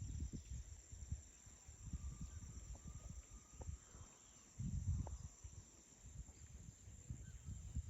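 Steady high-pitched chorus of forest insects such as crickets, with irregular low rumbling noise on the microphone that swells about halfway through.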